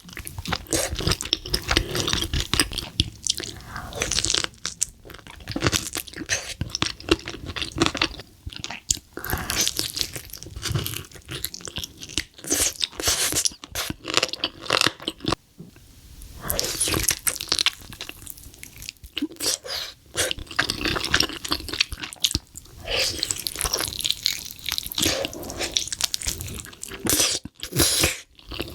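Close-miked eating of spicy cheesy chicken: repeated crunching bites and chewing in quick, irregular bursts, with short pauses between mouthfuls.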